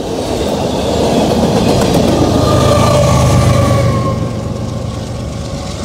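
Tail end of a freight train rolling past on the rails, wheels rumbling and clattering, then moving away. From about halfway through a low hum and a ringing tone that slides slowly lower come in, and the sound grows quieter near the end.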